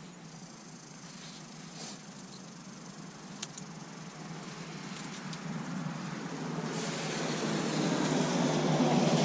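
A road vehicle approaching, its tyre and engine noise rising steadily and loudest near the end, with a few faint clicks from handling the decorations before it.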